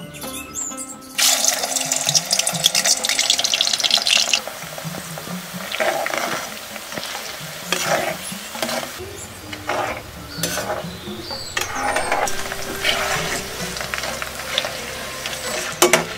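Ash plantain slices frying in hot oil in an iron wok: a loud burst of sizzling starts about a second in and lasts about three seconds, then the oil keeps sizzling and bubbling in uneven bursts as a spoon stirs the slices.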